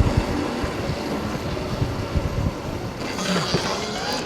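Wind buffeting the microphone of a helmet camera while riding, an uneven low rumble over a steady noise haze. A faint rising whine comes in near the end.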